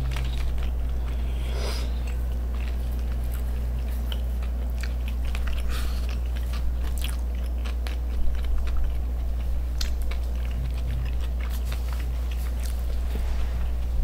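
Close-up chewing and crunching of crisp food, with scattered sharp crunches and a slightly louder run of bites about eight seconds in, over a steady low hum.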